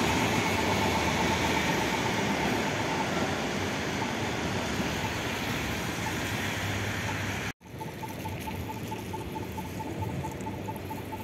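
Train running over a railway viaduct, its noise slowly fading as it moves away. After a sudden cut, quieter street background with a rapid steady beeping.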